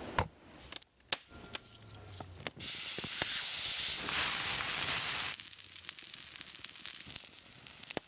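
A few clicks and taps, then a loud, steady hiss of nearly three seconds that starts and stops abruptly, followed by light crackling.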